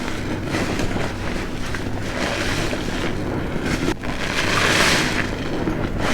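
A large car-wash sponge soaked in soapy dishwashing liquid being squeezed: wet squelching and foam hiss, swelling louder in slow surges about two and five seconds in.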